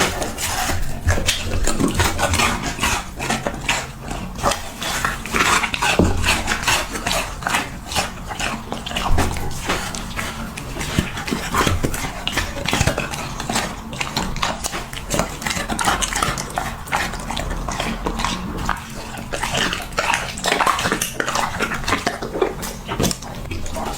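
Huskies chewing hard, crunchy dog treats close to the microphone: a dense, irregular run of crisp crunches and mouth clicks.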